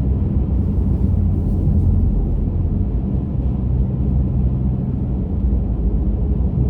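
Steady low rumble of a car's engine and tyres heard inside the cabin while driving on a winter road.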